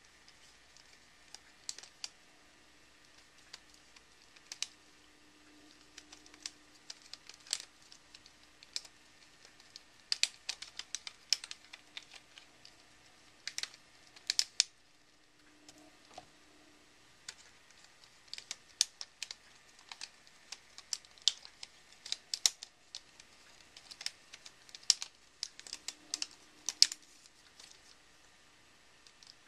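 Rubik's Snake being twisted by hand, its plastic wedge segments clicking as they turn into place. The clicks are sharp and irregular, often coming in quick clusters.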